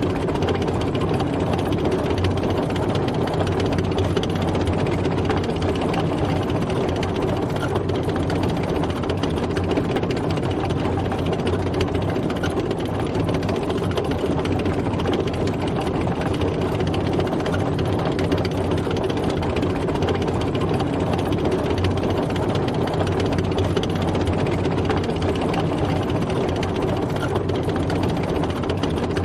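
Tank driving, its heavy engine running steadily at a constant pace with no change in speed or load.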